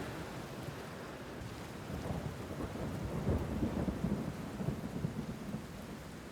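Steady rain with a low rumble of thunder that builds about two seconds in and fades before the end.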